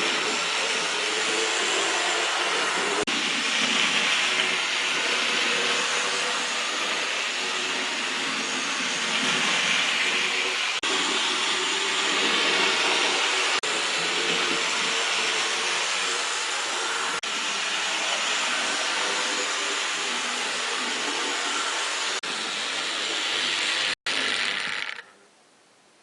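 Rivarossi HO-scale model of a B&O 2-10-2 steam locomotive running on track: the steady whirr of its electric motor and gearing with the rattle of its wheels on the rail. It cuts off abruptly near the end.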